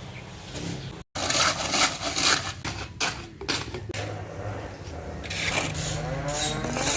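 Repeated rough scraping strokes of hand work on a building site, with a brief break about a second in.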